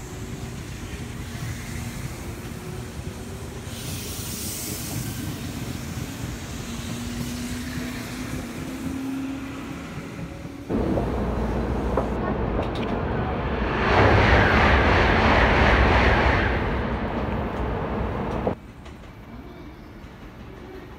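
A Tobu electric train pulling out of a station, its traction motors whining up in pitch as it gathers speed and runs off along the rails. About ten seconds in, a much louder rushing noise starts suddenly, swells, and cuts off abruptly near the end.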